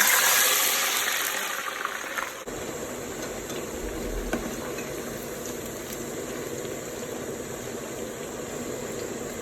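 Fries dropped into hot oil: a loud burst of sizzling that eases after about two seconds into steady bubbling and crackling as they deep-fry.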